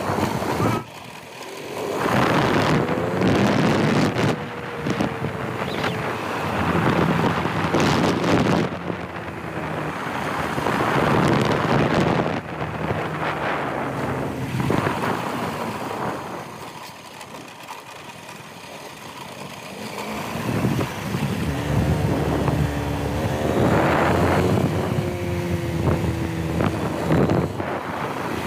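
Motorcycle engine running on the move, its pitch rising and falling as speed changes, with wind buffeting the microphone in surges.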